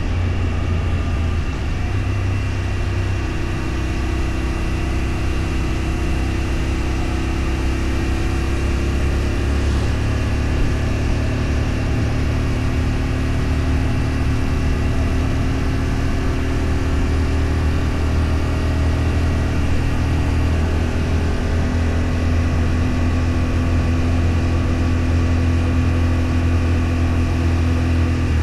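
A motor vehicle's engine running steadily on the road, its low hum drifting slightly in pitch with small changes in engine speed.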